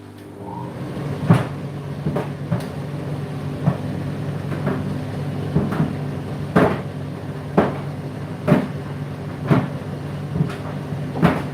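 Laundry machine drum turning with a load of clothes. The motor hum builds up about a second in, and the tumbling load knocks against the drum roughly once a second.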